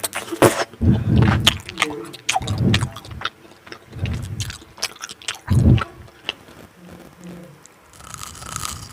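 Close-miked eating: food being bitten and chewed, with a deep mouth thump every second or so and many sharp crunching and wet clicks. A soft rustle or scrape comes near the end.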